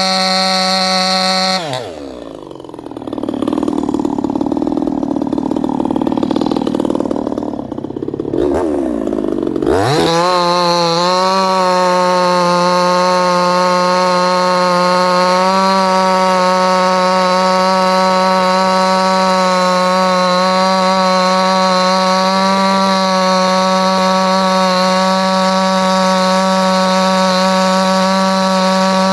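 A 58cc two-stroke Chinese chainsaw at full throttle. About two seconds in, its revs drop sharply as it bogs in a cut through very hard timber, and it labours for about eight seconds. It then revs back up and holds a steady high scream.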